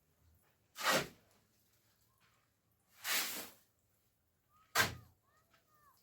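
Three separate scraping strokes, each about half a second long and roughly two seconds apart, with a few faint short chirps near the end.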